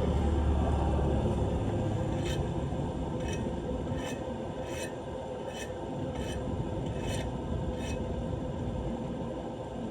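Short scraping strokes, about one every 0.8 seconds, over a steady rush of water as debris is cleared from a clogged street drain. A low rumble fades away over the first second or so.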